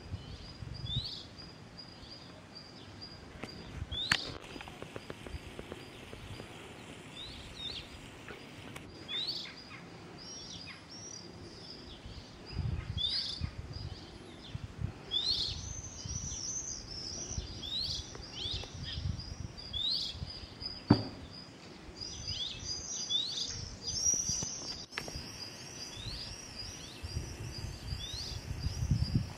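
Small birds chirping over and over, short rising chirps that grow busier in the second half, over a thin steady high pulsing note. Low rumbling noise comes and goes underneath, and there are two sharp clicks, the louder one about two-thirds of the way through.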